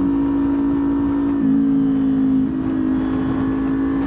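Kawasaki Ninja 400's parallel-twin engine running steadily at highway cruising speed, with wind noise on the helmet microphone. Its note shifts briefly for about a second in the middle, then settles back.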